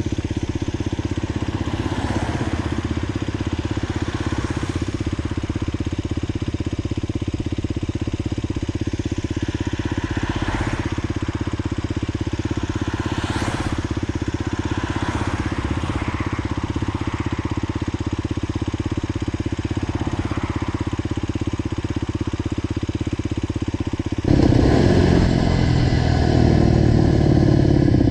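Motorcycle engine running steadily through a new aftermarket GPR exhaust, with an even beat of exhaust pulses. About 24 seconds in it suddenly gets louder and stays louder.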